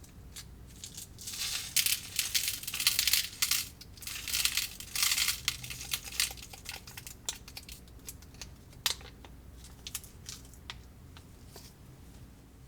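Plastic candy-kit packaging crinkling and crackling in dense bursts for about five seconds, then scattered light clicks and taps.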